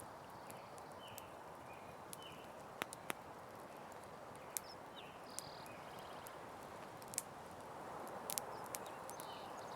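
Campfire crackling: scattered sharp pops and snaps over a steady soft hiss of burning wood, with a few brief high chirps in the background.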